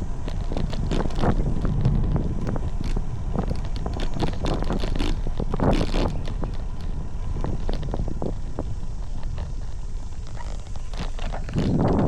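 Wind buffeting the microphone on a moving road bike, a steady low rumble, with frequent short clicks and rattles from the Khodaa Bloom Farna road bike.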